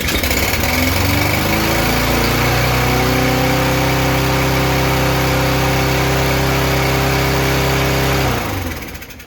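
Briggs & Stratton 6.75 single-cylinder lawn mower engine starting up and quickly revving to a steady speed, running evenly for several seconds, then shut off about eight seconds in and winding down. The engine runs after its carburetor repair.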